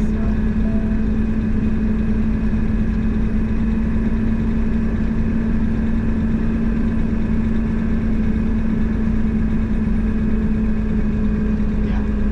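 Steady engine and road drone heard inside a moving truck's cab, with a constant low hum that does not change.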